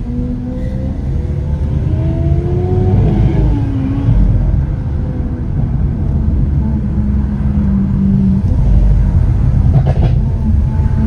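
Lamborghini Aventador SV Roadster's naturally aspirated V12 running on the move over heavy road rumble. Its note rises briefly about two seconds in and drops back just before four seconds. A short sharp crack comes about ten seconds in.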